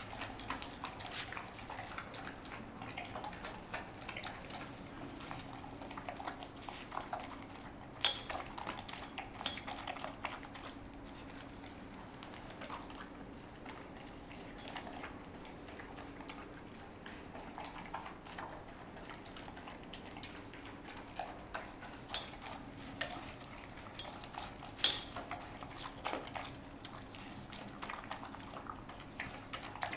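Saint Bernard puppy moving about with scattered clicks and metallic clinks, two sharper ones about eight seconds in and near twenty-five seconds. A faint steady hum runs underneath.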